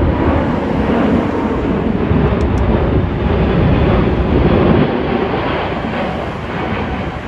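Jet airliner flying low overhead, its engines making a loud, steady noise that starts to fade after about five seconds.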